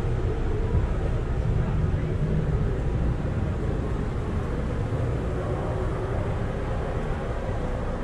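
Steady low rumble and hum inside an Amtrak passenger rail car.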